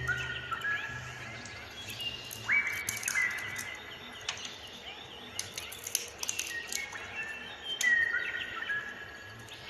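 Bird chirping, with short whistled notes that slide in pitch, repeated several times, and scattered sharp clicks.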